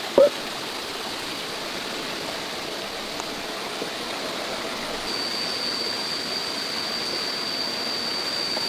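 Steady noise of running water from a stream, with one short loud sound right at the start and a steady high-pitched whine joining about five seconds in.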